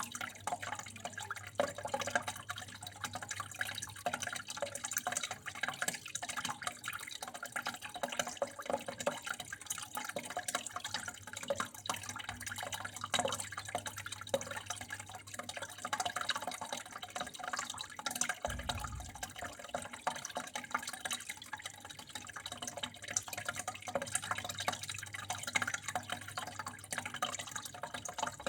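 Water flowing and dripping steadily, a continuous spatter of small splashes, over a low steady hum. A brief low thud about two thirds of the way in.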